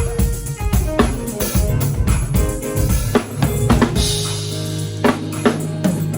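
Music led by a drum kit: bass drum and snare hits over sustained low bass notes, with a cymbal wash about four seconds in.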